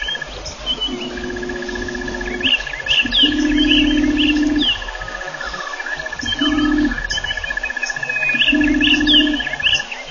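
Wild birds chirping, with many short falling whistles over a steady, rapid high trill. Four times a low, level, drawn-out hum or call of about one to one and a half seconds sounds under them and is the loudest sound.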